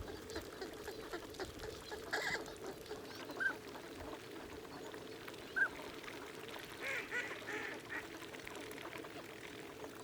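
A flock of waterfowl calling: a steady low chatter of many birds, with a few short, higher single calls standing out now and then.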